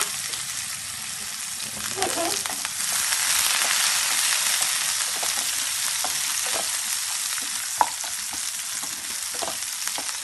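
Sliced onion, garlic and dried red chillies sizzling in hot oil as the tempering for dal, stirred with a wooden spatula. The sizzle swells about three seconds in, and the spatula knocks against the pan a few times.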